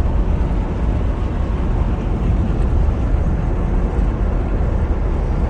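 Steady road and engine noise inside a moving car's cabin: an even low rumble with tyre and wind hiss above it.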